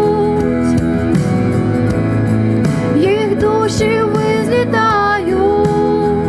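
A woman singing a slow song with held, wavering notes over a steady instrumental backing.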